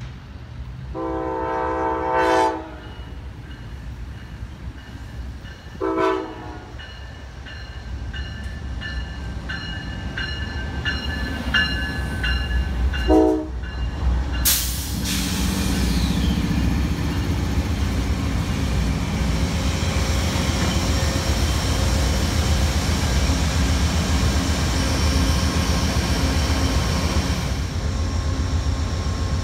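Amtrak GE P42DC diesel locomotive's horn blowing three times as the train approaches: one long blast about a second in, then two short ones, with a bell ringing between them. From about halfway the locomotive passes close by, its diesel engine running loud and steady over the rumble of wheels on the rails.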